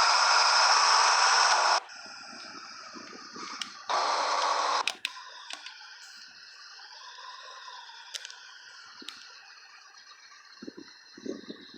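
Loud static hiss from a truck's CB radio, cutting off abruptly about two seconds in and bursting back for about a second near the middle, then a quieter hum with scattered light ticks.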